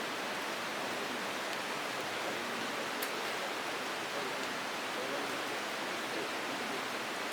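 Steady, even rushing noise, like running water, with one faint click about three seconds in.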